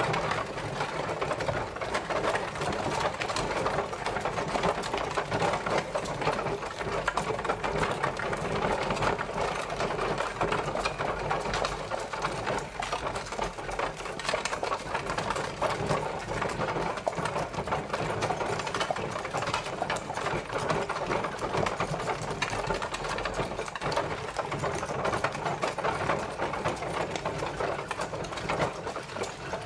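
Horse-drawn carriage travelling: a steady, dense rattle and clatter that keeps on at an even level.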